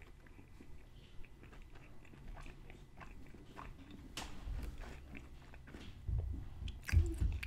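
Close-up chewing of a mouthful of crispy breaded fried-chicken sandwich: soft crunches and wet mouth clicks, with a few louder low thuds near the end.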